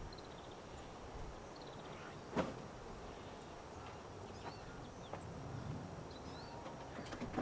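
Scattered short bird chirps over quiet outdoor background, with two sharp knocks, one about two seconds in and one near the end.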